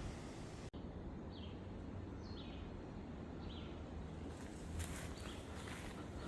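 A bird calling outdoors: four short chirps that slide downward in pitch, about one a second, over a steady low outdoor rumble. Light crackling comes in during the second half.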